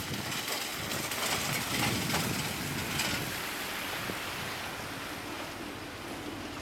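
Rushing, wind-like noise as a DF11 diesel locomotive hauling a passenger train approaches, with a steady low engine hum coming up about five seconds in.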